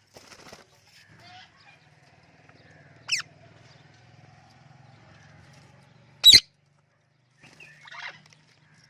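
Parrots calling: two short, shrill screeches sweeping down in pitch, the second, about six seconds in, the loudest, with softer chattering calls near the start and near the end.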